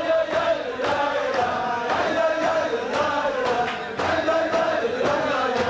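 A crowd of men singing a Chassidic niggun together for joyful dancing, with a sharp beat about twice a second.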